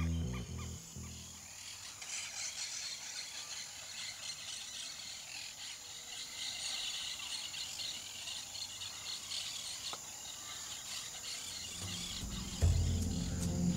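Insects chirring steadily in the forest, a high, fine, rapid buzz. Soundtrack music fades out at the start and comes back in near the end.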